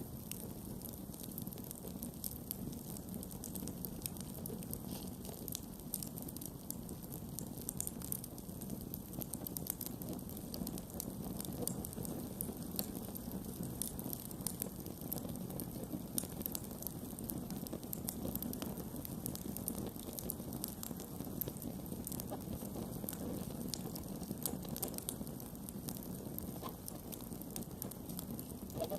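Campfire burning and crackling: a steady low rush of flame with frequent small pops and snaps throughout.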